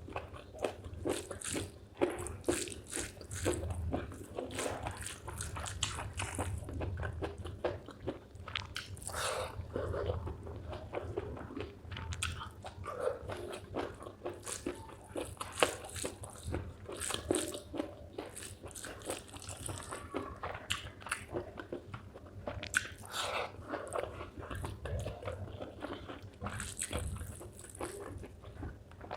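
Close-miked chewing and biting of spicy chicken gizzard with rice: wet, crunchy mouth sounds and smacking in a continuous irregular run.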